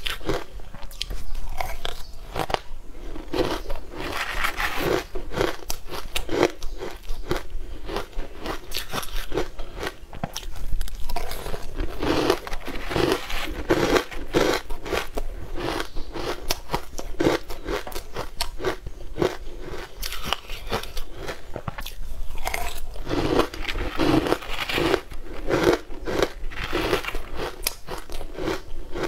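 Close-miked eating sounds: steady, repeated crunching and chewing of a crumbly, crumb-coated food, mouthful after mouthful.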